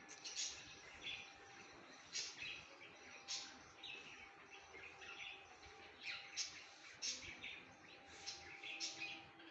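Birds chirping: a dozen or so short, sharp calls at irregular intervals over a faint steady hum.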